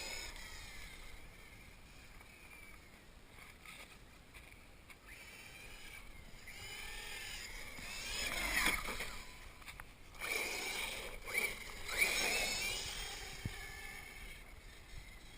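1/8-scale RC monster truck's motor whining up and down in pitch as the truck speeds up and slows, louder as it comes near about eight seconds in and again from about ten to thirteen seconds in.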